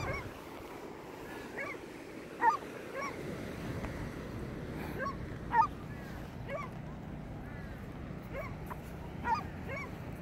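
Bird calls: short notes, each rising and falling in pitch, repeated irregularly about a dozen times, with two louder ones about two and a half and five and a half seconds in, over a steady low background noise.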